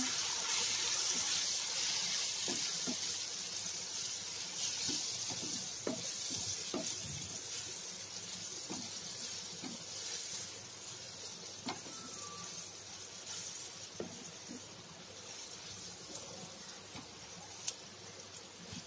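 Onion-tomato masala frying in oil in a kadai, with turmeric and kuzhambu powder just stirred in. It makes a steady sizzling hiss that slowly dies down, with scattered light taps and scrapes of a wooden spatula against the pan.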